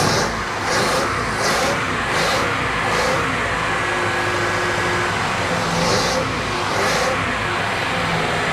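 Chevy 350 (5.7-litre V8) boat engine running steadily just above idle after sitting for years. It runs smoothly on all eight cylinders but needs a little throttle to keep going, because the low idle is set too low.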